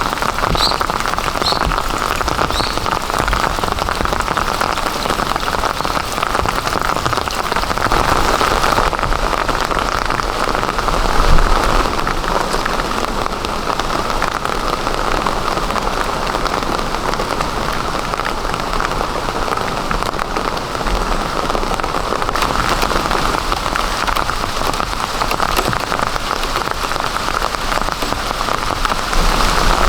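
Heavy rain falling steadily in a downpour, with a brief louder swell about eleven seconds in.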